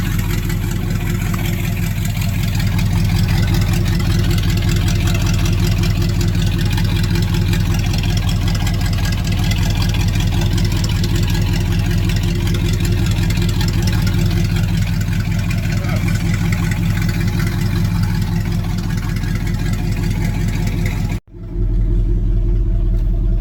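Old Dodge Power Wagon pickup's engine idling steadily just after a cold start, its choke pushed back in. The sound cuts out abruptly for an instant near the end, then the idle resumes.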